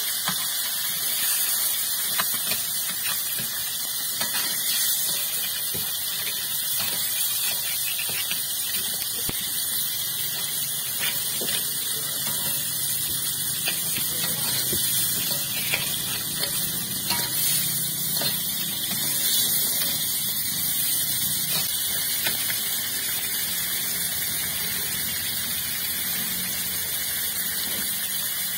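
Blue crabs and tomatoes frying in a hot wok: a steady sizzling hiss with scattered small pops and ticks, and now and then the scrape of a spatula against the pan.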